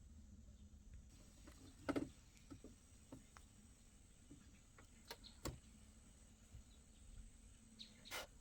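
Faint, scattered clicks and knocks over low background noise, the loudest about two seconds in and a short burst near the end.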